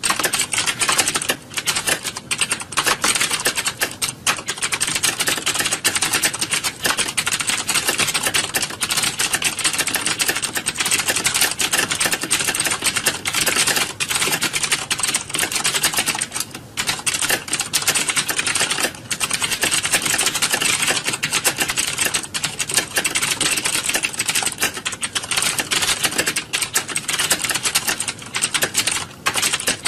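Computer keyboards being typed on fast, in a dense, continuous clatter of key clicks with only brief dips.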